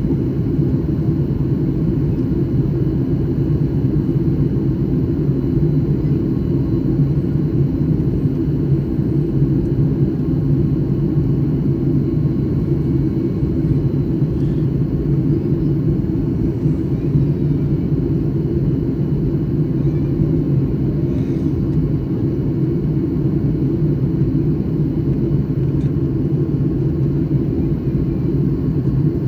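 Steady low rumble of a Boeing 737 MAX 9 airliner, even and unbroken with no change in pitch or level.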